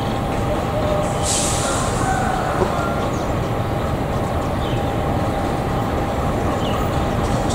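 Diesel locomotive hauling a passenger train as it approaches, its engine running with a steady rumble. A brief hiss comes a little over a second in.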